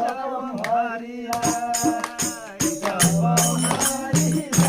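A group singing a song together, joined about a second in by a steady rhythm of jingling percussion, with a low drum beat coming in near the end.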